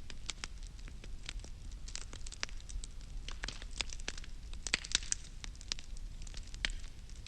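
Wood fire crackling, with sharp pops coming irregularly and bunching into quick flurries about two seconds in and again near five seconds, over a steady low rumble.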